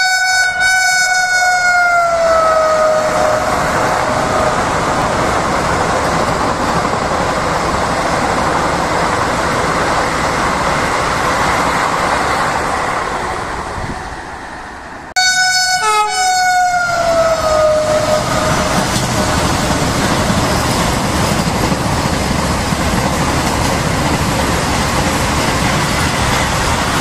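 Vande Bharat electric trainset sounding its horn as it passes, the horn's pitch sliding down, followed by the steady rush and rumble of the train running past on the track. About halfway through there is an abrupt cut to a second pass: another horn blast sliding down in pitch with a brief break, then the loud rush of the train going by close.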